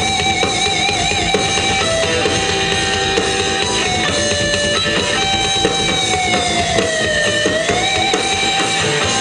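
Live rock band playing an instrumental passage over drums. An electric guitar lead holds long notes with vibrato, bending down and back up about seven seconds in.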